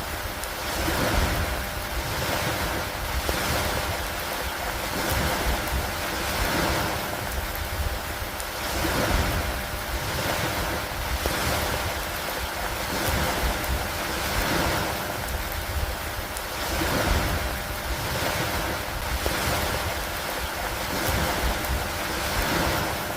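Stormy lakeside ambience: a steady rush of wind and water that swells and eases about every two seconds, with a low rumble underneath.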